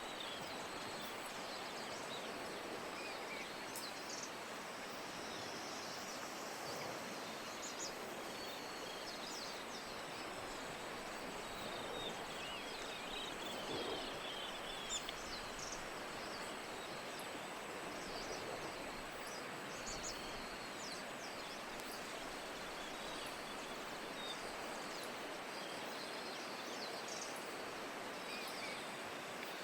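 Steady rain with short, high bird chirps scattered throughout.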